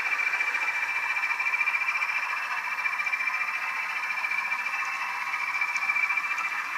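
Bachmann Class 20 model diesel locomotive running on its DCC sound decoder, the English Electric diesel engine sound played through its small onboard speaker with a steady high whine.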